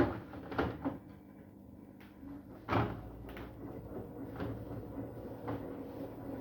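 Arctic washing machine running in service test mode, with irregular clunks and knocks over a steady low hum. The owner takes these for bad noises.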